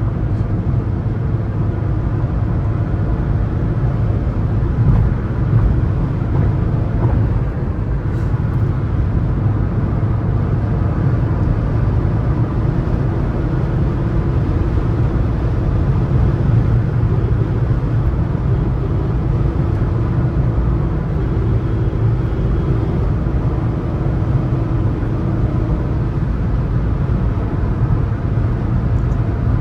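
Suzuki S-Cross 1.3 DDiS four-cylinder turbodiesel cruising at highway speed, heard from the driver's seat: a steady low engine drone under continuous road and wind noise.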